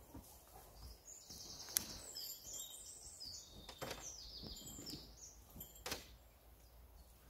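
A songbird singing in short, repeated high phrases, with three sharp knocks from gear being handled.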